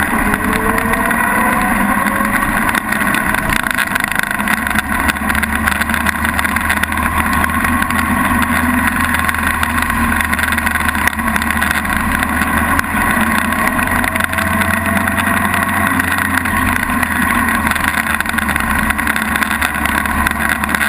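1923 Diatto 20S vintage car's engine running under load at speed, its pitch climbing about a second in and again late on as it accelerates.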